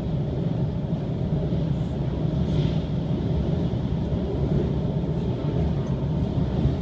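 Steady low rumble of the Shiokaze limited express electric train running over the steel truss railway deck of the Seto-Ohashi Bridge, heard from inside the carriage: wheels on rail at speed, with an even level throughout.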